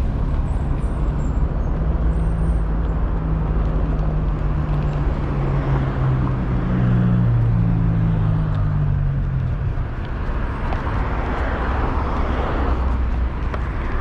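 City street traffic: the steady rush of road noise with a motor vehicle's engine hum running alongside for several seconds, fading out a little over halfway through.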